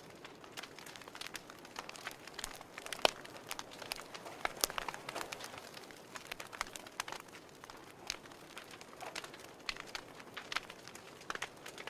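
Wood fire crackling: irregular sharp pops and snaps over a soft hiss, with a louder pop about three seconds in and another a little before the middle.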